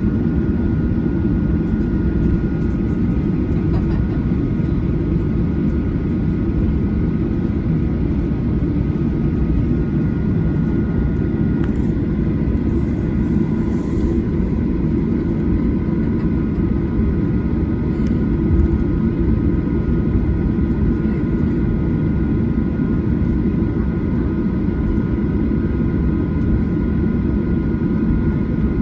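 Cabin noise of a Boeing 737-800 with its CFM56 engines running: a steady, loud rumble with several steady whining tones above it, even throughout.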